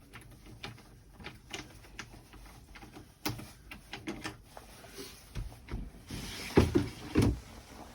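Scattered knocks, clicks and clunks of bags and gear being handled and moved about, with two louder thumps near the end.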